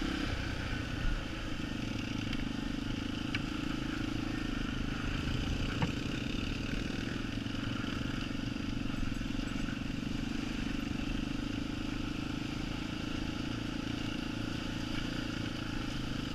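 Yamaha TT-R250 trail bike's single-cylinder four-stroke engine running at a steady, even pace, with a few faint knocks in the first six seconds.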